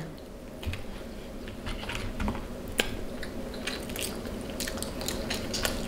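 A person chewing and eating seafood-boil food, with many small scattered clicks from the mouth and food.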